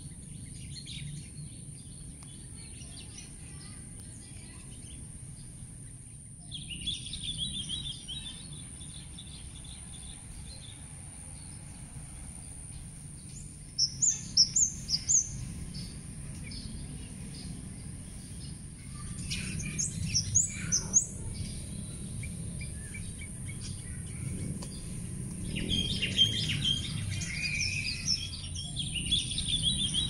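Garden birds chirping and calling: a burst of chirps about six seconds in, a quick run of five or so sharp high notes around fourteen seconds, a cluster of fast notes about twenty seconds in, and chattering near the end. A steady low hum and a steady high-pitched whine sit under them throughout.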